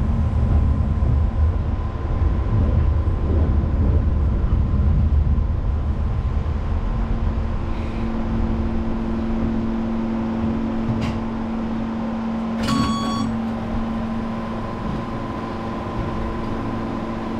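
Electric commuter train running on the Konan Line, heard from the front of the car. The low rumble of wheels on rail is heavy at first and eases about seven seconds in, giving way to a steady low hum, as the train slows for the next station. A brief high-pitched tone sounds about thirteen seconds in.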